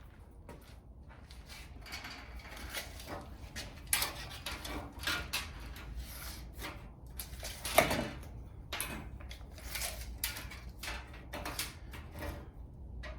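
An irregular run of knocks, scrapes and rustles, with a sharper knock about eight seconds in.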